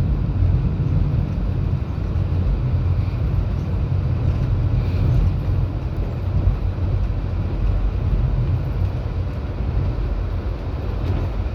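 Passenger train running steadily, a continuous low rumble of the wheels and carriage with an even rushing noise above it.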